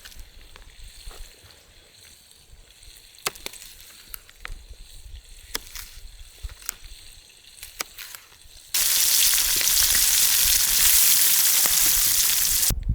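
Smallmouth bass fillets frying in a pan: a loud, steady sizzle starts suddenly about nine seconds in and cuts off just before the end. It follows several seconds of quieter scattered clicks and taps.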